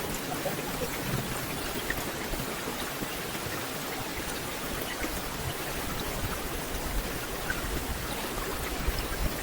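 Steady rain falling on forest leaves: an even wash of sound with scattered single drips.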